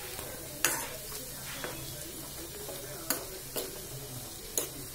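Pakoras sizzling as they deep-fry in hot oil in a metal kadhai, with a metal spoon knocking against the pan four times as they are turned.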